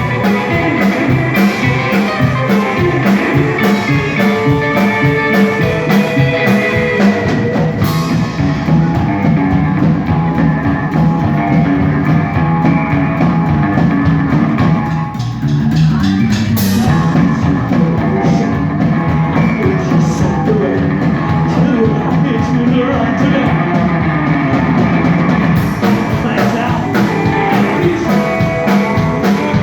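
A rock band playing live, with guitar and bass over a drum kit. The cymbals drop out about a quarter of the way in, leaving a quieter passage, and come back in near the end.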